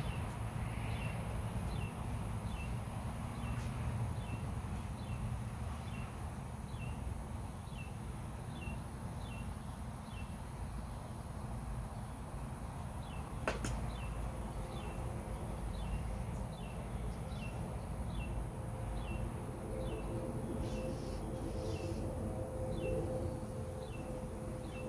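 A bird repeating a short, high, falling chirp about every 0.7 seconds, over steady low rumbling background noise, with one sharp click about halfway through.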